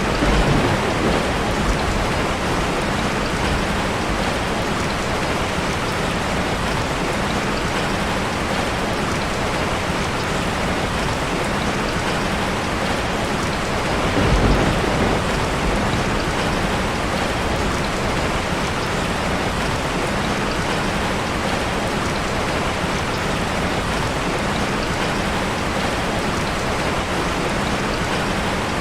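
Steady, heavy rain falling, a dense even hiss of drops. Twice, about half a second in and again halfway through, a brief low rumble swells up under it.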